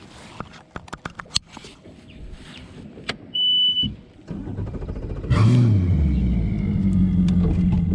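A short electronic beep, then a boat's outboard engine starts about five seconds in, briefly revs and settles into a steady low idle. Scattered light clicks come before it.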